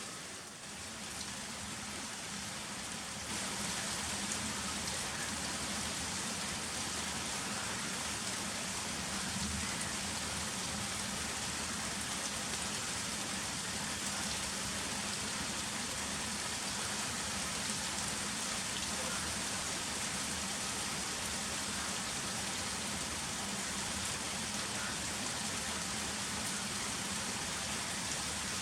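Heavy rain falling steadily, a dense even hiss of drops on surfaces. It grows louder about three seconds in, then holds steady.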